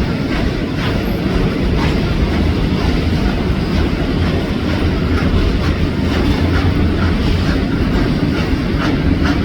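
Train running on the rails: a loud, steady rumble of wheels and running gear, with faint irregular clicks over rail joints.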